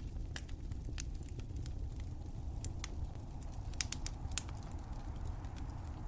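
Fire crackling: irregular sharp pops and snaps over a steady low rumble, with the two loudest pops a little after the middle.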